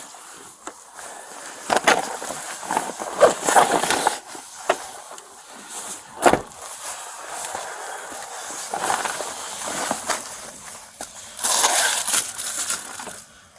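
Rustling, scraping and clicking of things being handled and searched through, with a sharp knock about six seconds in.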